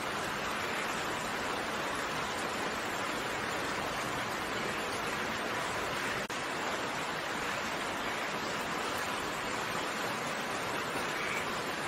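Steady rainfall, an even hiss of raindrops with no separate drops or thunder standing out, and a momentary dropout about halfway through.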